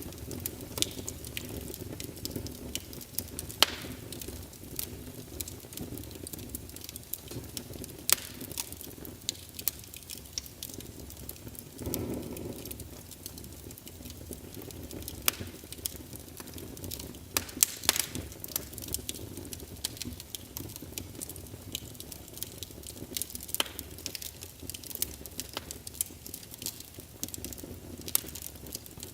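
Wood fire crackling in a fireplace: a steady low rumble with irregular sharp pops and snaps, and a brief louder whoosh of flame about twelve seconds in.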